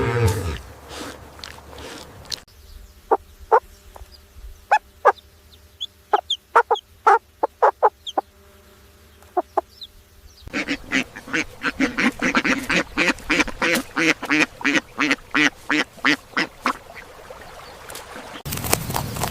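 Domestic fowl calling: a string of short, sharp, separate calls, then several seconds of rapid, continuous clucking. Near the end the sound cuts abruptly to a different, noisier background.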